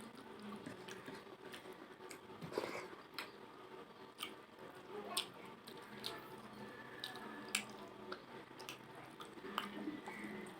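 A person chewing and eating rice with fish-head curry and dal: wet squishing mouth sounds with irregular sharp clicks and smacks.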